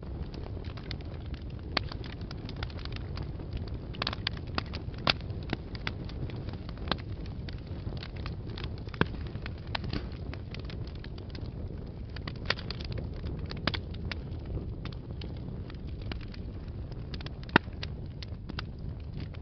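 Wood fire burning in a fireplace: a steady low rumble of the flames with irregular sharp crackles and pops, one loud pop near the end.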